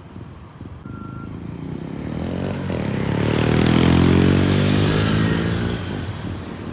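A motor vehicle passes close by on the street: its engine note swells to a peak about four seconds in, drops in pitch as it goes past, and fades away.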